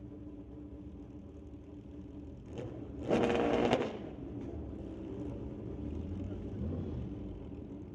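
Drag-racing motorcycle engine revved hard for about a second, a fast buzzing rev about three seconds in, over a steady engine hum; a lower engine rumble swells again near the end.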